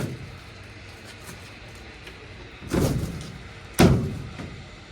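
Thumps and knocks on a pickup bed's roll-up tonneau cover, just clamped and locked in place: a heavier thud about three seconds in and a sharper, louder knock a second later.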